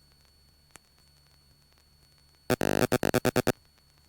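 Electronic alert tone in the cockpit audio: one beep of under half a second followed by a quick run of about six short beeps, a little past halfway through, with near silence around it.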